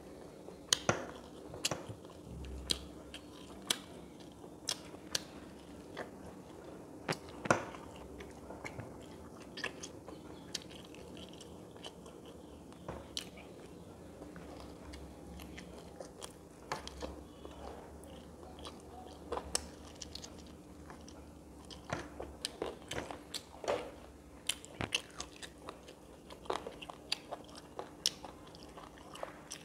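Close-miked eating: a person chewing and biting food, with sharp crunches and wet mouth clicks coming at irregular intervals over a faint steady hum.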